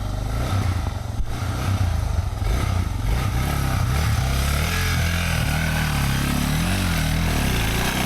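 Motorcycle engine running at low revs, its pitch rising and falling with small throttle changes as the bike is eased down a rough, steep trail.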